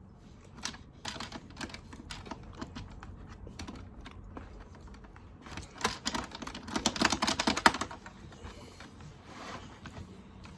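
Many small plastic clicks and taps from handling an Operation-style toy game as its pieces are worked out. A dense flurry of rapid clicks comes about six and a half seconds in.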